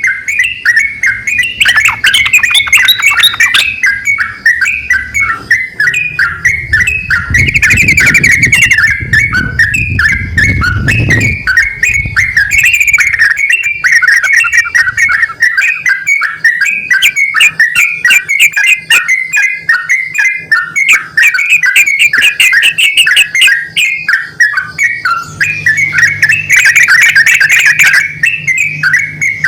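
A pair of yellow-vented bulbuls (trucukan), male and female, calling back and forth in a loud, unbroken chatter of quick, bubbly notes. A low rumble sits under the calls about a quarter of the way in.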